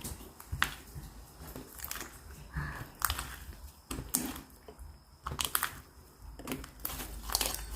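Clear slime being squeezed and stretched by hand, giving irregular sharp clicks and sticky crackling pops.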